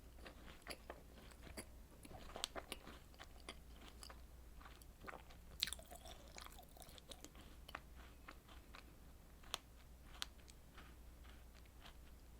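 A person chewing and biting strawberry desserts: a run of small, sharp, wet clicks, busiest about two seconds in and again around the middle, with the loudest near the middle.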